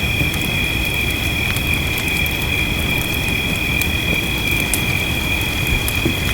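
Fireplace crackling, with scattered sharp pops over a steady low rushing noise. A steady high-pitched two-note drone sits on top of it.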